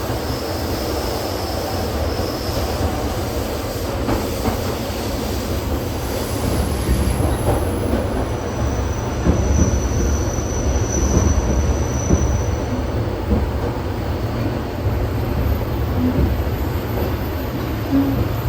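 ED4M electric multiple unit running on the line, heard from inside the carriage: a steady low rumble of wheels on rails. Thin high wheel squeals come in twice, briefly near the start and again for a few seconds mid-way.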